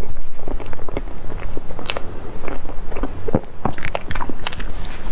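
Close-miked chewing of a soft cream-filled pastry, with irregular wet clicks and smacks from the mouth.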